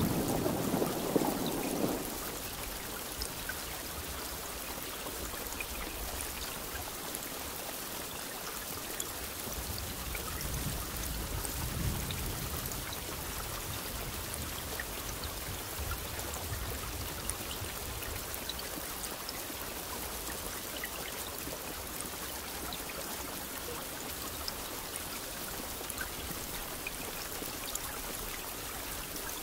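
Steady rain falling, an even hiss with scattered drop ticks. A low rumble of thunder dies away about two seconds in, and a fainter rumble swells and fades near the middle.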